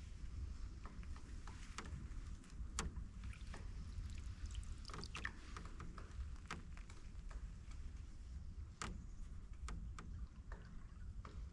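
Canoe being paddled: light water sounds with many scattered short clicks and knocks from the paddle and the creaky canoe, over a steady low rumble.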